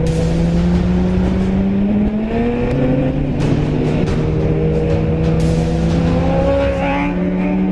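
Four-cylinder sport motorcycle engine running, its note slowly rising and falling in pitch.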